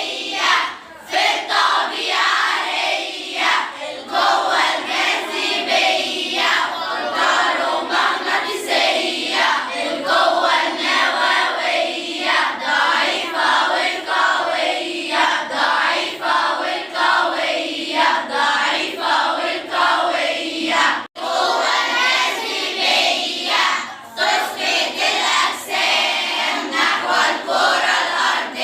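A group of schoolgirls singing a song together in chorus, with many voices at once. The singing breaks off for a moment about three-quarters of the way through.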